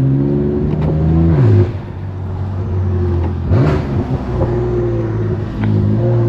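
BMW F80 M3 Competition's S55 twin-turbo inline-six running loud through a straight-piped single mid-pipe exhaust. Its pitch holds, then drops sharply about a second and a half in, rises and falls quickly about halfway through, and settles steady again near the end.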